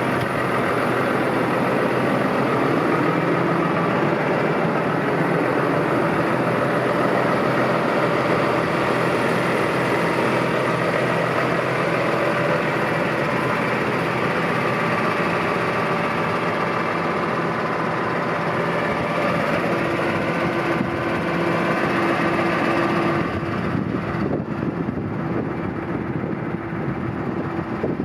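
New Holland T6.180 tractor's diesel engine running steadily at idle. About 23 s in, the sound turns duller and more uneven.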